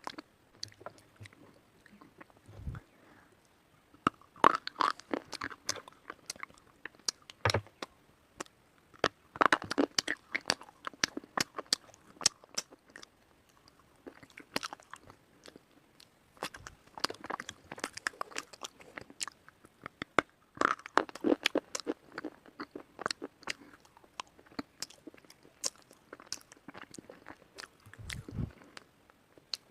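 Someone biting and chewing white slate pencil: sharp, crisp crunches in bursts of a few seconds, with quieter chewing between.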